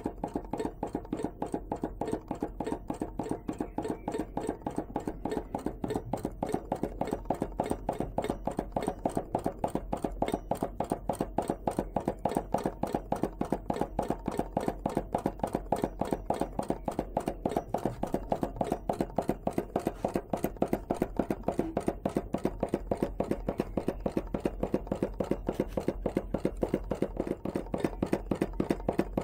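Small home-made hot air (Stirling) engine built from a converted air pump, running steadily, its mechanism knocking in an even rhythm of several clicks a second.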